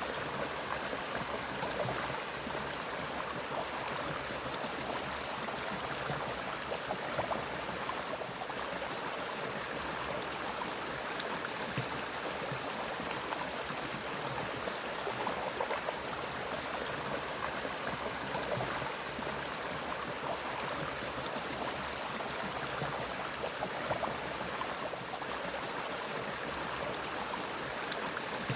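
Mountain stream flowing: a steady rush of water. A steady high-pitched tone sits above it throughout.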